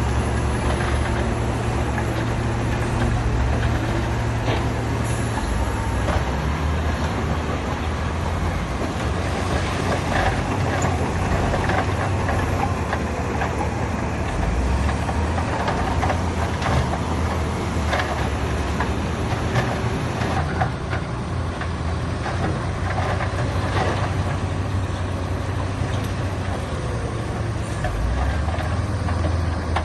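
Heavy diesel earthmoving machinery running steadily, its engine note changing a couple of times, with scattered knocks through the middle.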